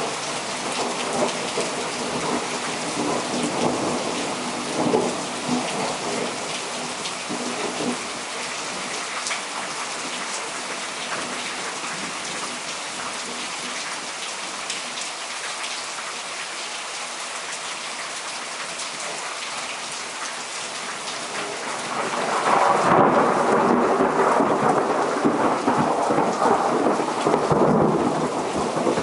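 Heavy downpour of rain from a frontal thunderstorm, steady throughout. A long, loud rumble of thunder swells in about three quarters of the way through and runs for several seconds.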